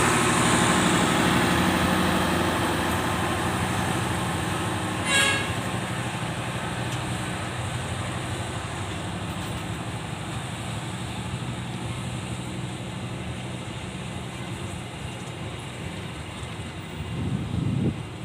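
Diesel locomotive engine running as the train goes by, the hum slowly fading away. A short toot about five seconds in, and a brief louder low rumble near the end.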